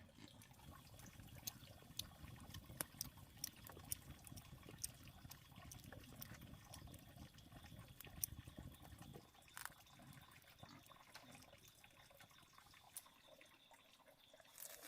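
Faint water trickling and splashing, with scattered small clicks and a faint steady high tone underneath; the low water noise eases off about nine seconds in.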